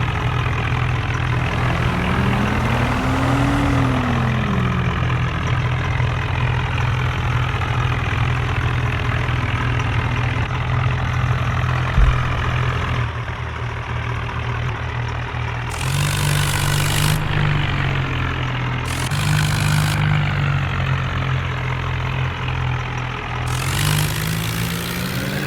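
Tractor's diesel engine running loudly, its pitch rising and falling as it is revved several times. There is a sharp click about halfway through.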